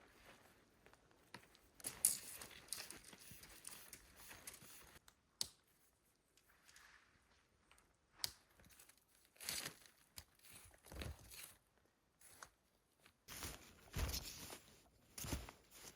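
Boots stomping and packing down snow: irregular crunches coming in scattered bunches with short pauses between them.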